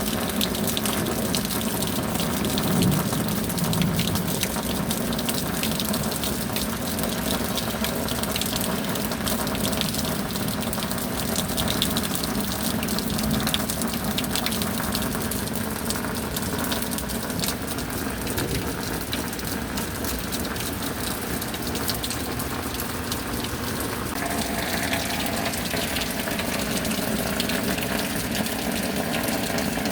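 Steady rain falling: a continuous wash of noise dotted with countless small drop ticks, with a faint steady hum underneath that shifts slightly about 24 seconds in.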